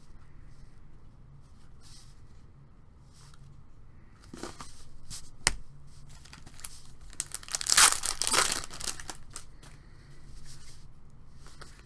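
A baseball card pack's wrapper being torn open and crinkled. There is a sharp click a little past halfway, and the loudest tearing comes about eight seconds in.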